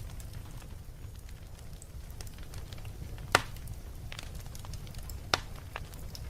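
Wood fire crackling in a fireplace: scattered small crackles, with two sharp louder pops about three and five seconds in, over a low steady rumble.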